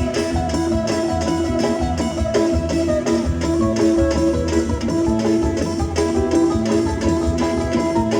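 Live band music through a PA sound system: a plucked guitar over a steady beat, with no singing.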